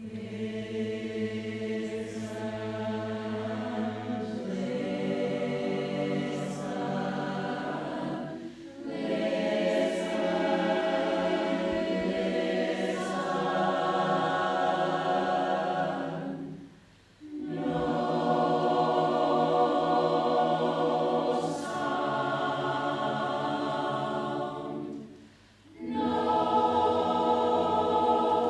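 Choir singing held chords in several-part harmony, in three long phrases with short breaks about 8, 17 and 25 seconds in.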